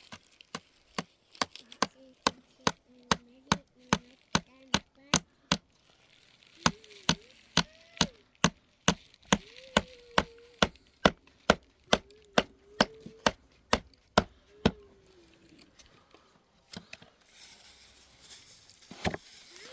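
Rapid, even chopping with a blade, about three sharp knocks a second, in two runs with a short pause between them; the chopping stops about fifteen seconds in. A faint wavering tone runs underneath.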